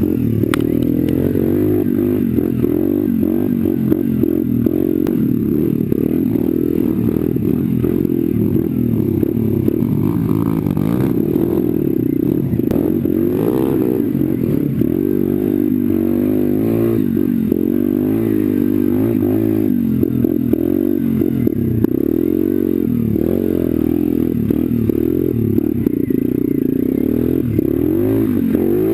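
Pit bike engine revving up and down without a break as the bike is ridden off-road, with frequent short knocks and rattles.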